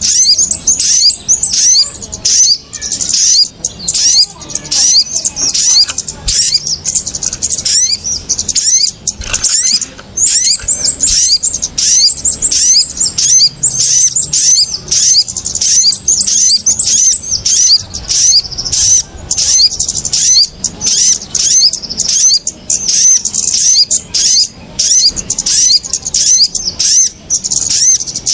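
A dense, continuous stream of shrill, rapid small-bird chirps and scolding calls from a bird-lure recording of kemade and sogon, a noisy mix meant to draw small birds in.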